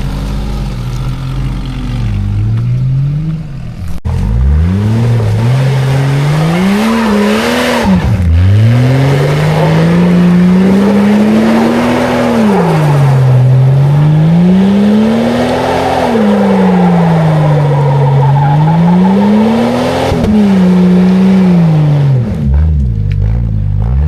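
Old Jeep Cherokee's engine revved hard in the mud, its pitch climbing and dropping about five times with a rough, noisy wash over it. A sharp knock about four seconds in comes just before the revving picks up, and the revs fall away near the end.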